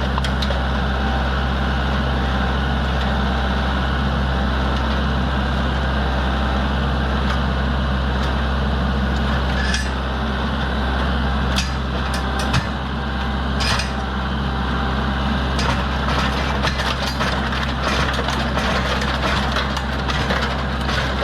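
Tractor engine running steadily under load, with a few sharp knocks a little past the middle as the mower is crushed.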